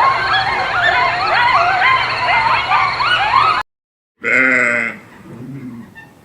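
Edited animal sound clips: a loud, dense chorus of many overlapping calls that rise and fall in pitch, cut off suddenly, then after a brief gap a single short call.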